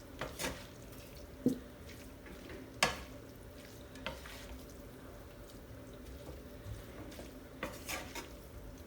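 Egg noodles being stirred and tossed with a utensil in a pan of stir-fry on high heat, with about seven scattered scrapes and knocks against the pan over a steady faint hum.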